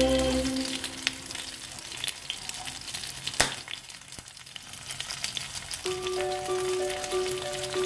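Oil sizzling and crackling with quick pops as a flour-coated piece of meat fries in a tiny stainless-steel pan over a small flame, one pop louder than the rest a little past the middle. Background music fades out at the start and a simple repeating tune comes in near the end.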